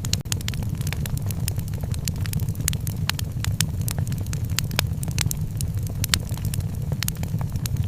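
Wood fire crackling, with frequent sharp pops and snaps scattered irregularly over a steady low rumble.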